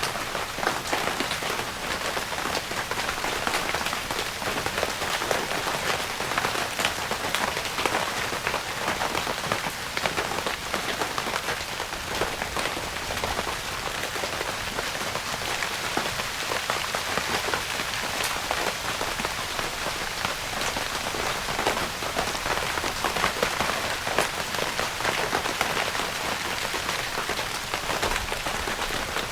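Rain falling steadily on a tent, with a dense, even patter of individual drops striking the fabric.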